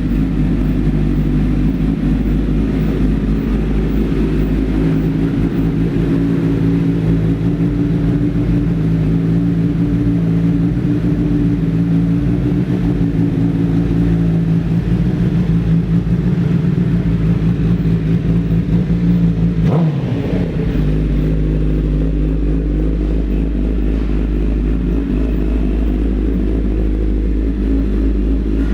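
2008 Honda CBR1000RR's inline-four engine idling steadily through a Two Brothers aftermarket exhaust, a deep rumble. About twenty seconds in the sound briefly dips, then settles slightly quieter.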